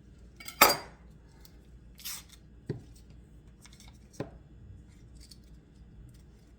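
Kitchen handling noises while butter is portioned for the frying pan: a sharp clatter about half a second in, a brief rustle around two seconds, then two light knocks.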